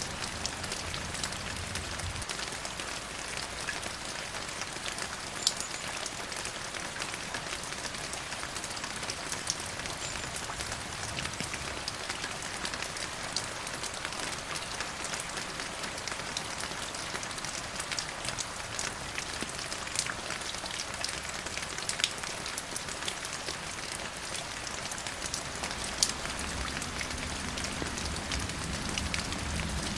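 Steady rain falling on a surface, a dense patter with scattered louder individual drops striking.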